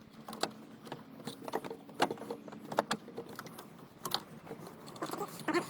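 Irregular light clicks and knocks as the Ford Mondeo Mk4's plastic coolant reservoir and its clips are handled and pushed back into place, with the sharpest clicks about two, three and four seconds in and near the end.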